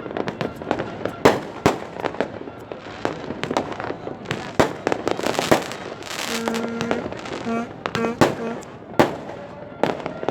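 Fireworks going off in rapid, irregular bangs with stretches of crackling. A horn sounds a few short blasts about two-thirds of the way through.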